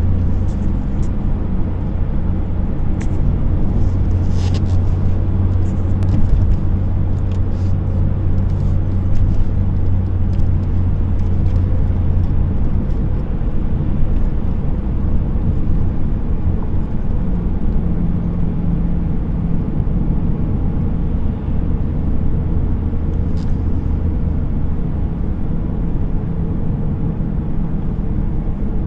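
A car driving on a road: a steady low rumble of engine and tyre noise that shifts slightly in pitch with speed, with a few faint clicks.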